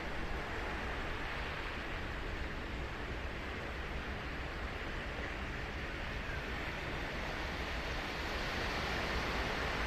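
Ocean surf on Sagami Bay breaking and washing ashore: a steady rushing wash that swells a little louder near the end.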